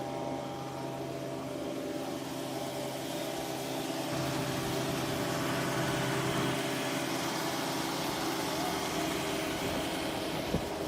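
Concrete pump truck's diesel engine running steadily, with a hiss that builds up over the first few seconds.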